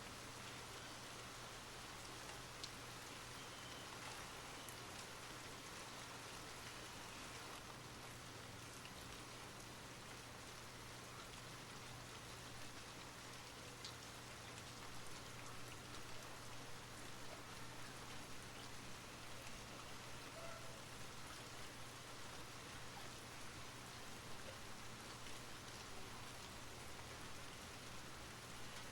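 Steady rain falling, with drops pattering on surfaces, a little heavier from about halfway through.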